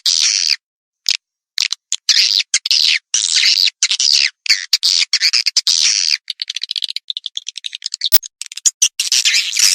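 Swiftlet lure call: rapid high twittering chirps in choppy bursts broken by short complete silences, with a stretch of fast clicking in the second half. This is the kind of recording played to draw swiftlets into a nesting house.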